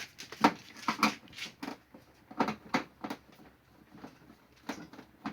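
Irregular light clicks and knocks of a small air cooler's plastic body being handled while its screws are being undone.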